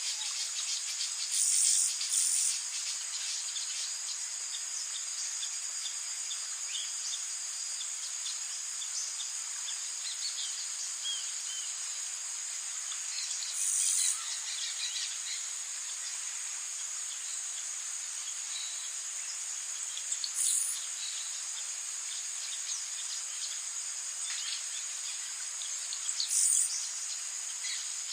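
Rainforest insect chorus: a steady high buzzing that swells louder four times, about every six seconds, with scattered faint bird chirps.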